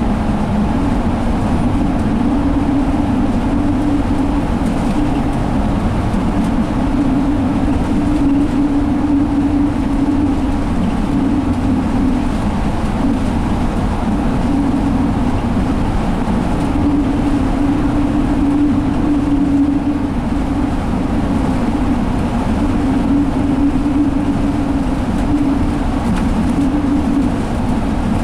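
Steady running noise of a 2017 Alexander Dennis Enviro500 double-decker bus heard from inside its cabin: Cummins ISL diesel engine and road rumble, with a humming tone that swells and fades every few seconds.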